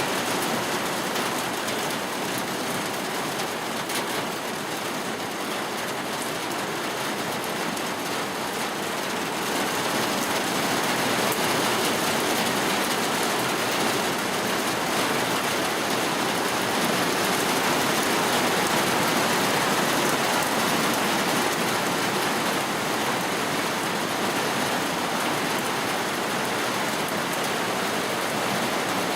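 Steady heavy rain, an even dense hiss of drops falling on surfaces.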